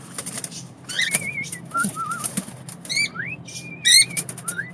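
Small birds chirping, with short rising and warbling whistled calls and brief clicks or flutters between them.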